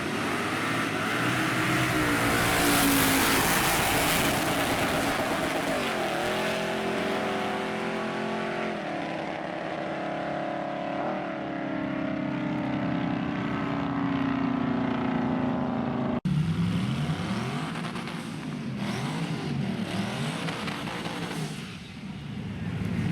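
Drag-racing trucks' engines at full throttle on a pass, the pitch climbing and then dropping at gear changes. After an abrupt cut about two thirds of the way in, the engines rev up and down again and again, about once a second.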